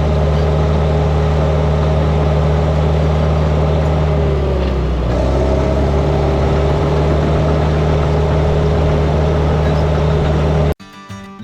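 Heavy earthmoving machine's engine running steadily under load. Its pitch sags briefly about halfway through, then recovers. The engine sound cuts off abruptly near the end, giving way to acoustic guitar music.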